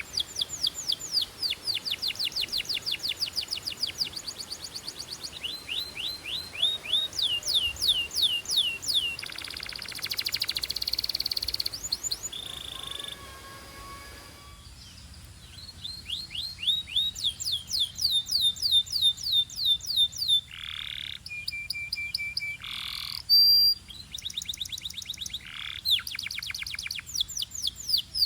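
Canary singing fast trills of rapidly repeated, downward-sweeping notes, broken by a brief pause a little before halfway, with a few longer, separate whistled notes in the second half.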